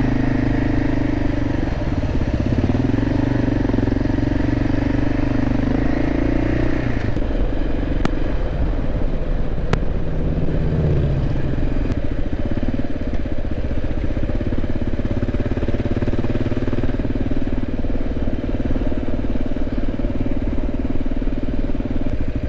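Motorcycle engine running, its pitch shifting up and down over the first half and then holding steady.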